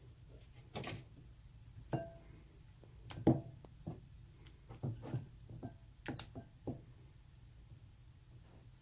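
Scattered light knocks and taps of kitchen handling while breading chicken pieces by hand, with dishes and bowls touched and set down; the loudest knock comes about three seconds in.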